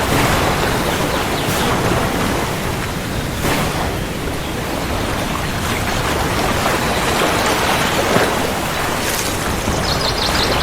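Steady rain, with a low rumble of thunder underneath.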